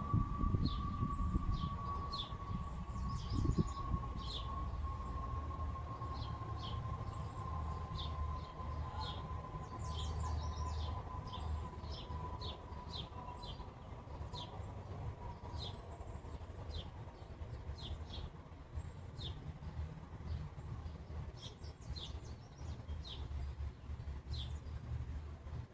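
Small songbirds chirping: many short, high chirps in irregular succession, a few a second at times, over a low steady rumble.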